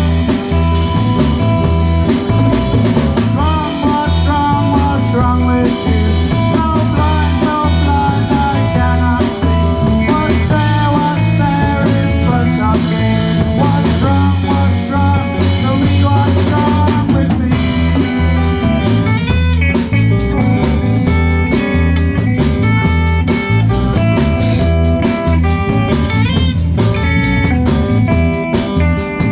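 Live rock band playing an instrumental passage: a lead electric guitar plays bending notes over bass guitar and a steady drum kit beat, with the cymbals growing busier in the second half.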